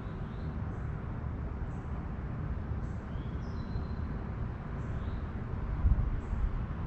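Outdoor background noise: a steady low rumble with a stronger low bump about six seconds in, and faint high bird chirps about once a second.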